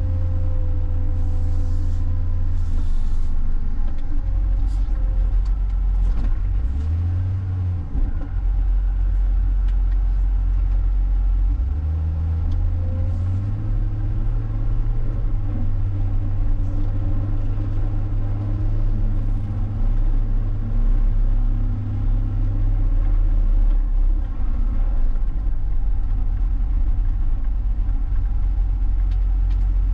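John Deere 544K wheel loader's diesel engine running loud and steady, its speed stepping up and down several times as the machine works.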